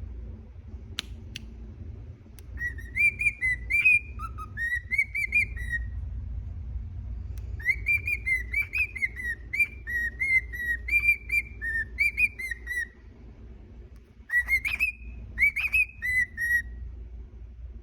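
Cockatiel whistling its song in three runs of quick warbling notes that rise and fall, with a pause between each run.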